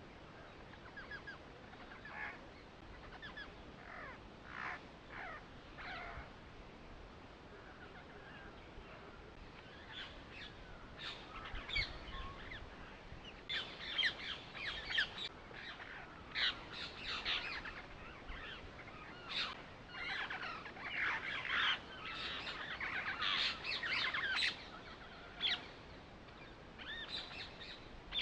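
Birds chirping: many short, quick calls, a few at a time at first, then many overlapping from about ten seconds in.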